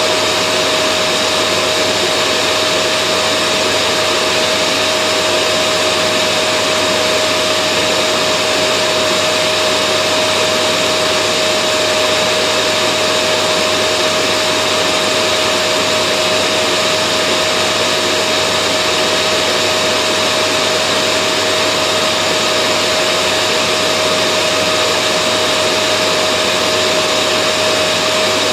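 Vacuum cleaner motor running steadily: a constant rushing hiss with a steady whine, unchanging in pitch and loudness.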